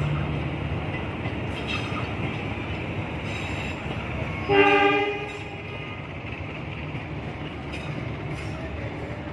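Train running past with a steady rumble. About halfway through comes one short horn blast, the loudest sound.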